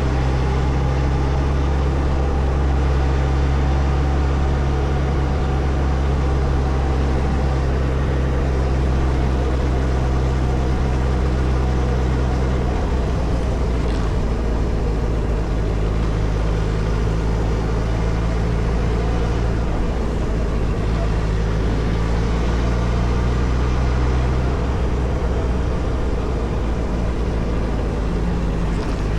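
Suzuki Hayabusa's inline-four engine running steadily. Its note shifts to a different pitch about 13 seconds in and again near the end.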